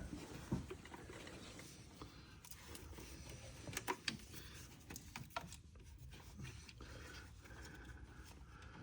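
Faint, scattered clicks and light knocks of hand tools and engine parts being handled during work under a truck's hood.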